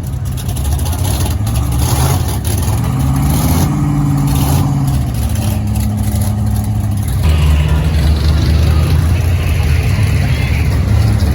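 A vehicle engine running and being revved: its pitch climbs about three seconds in, then falls back, and a steady engine note carries on after about seven seconds.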